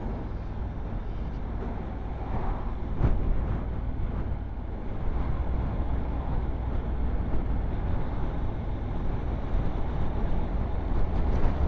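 Steady running noise of a road vehicle in motion, mostly a low rumble, with a brief knock about three seconds in.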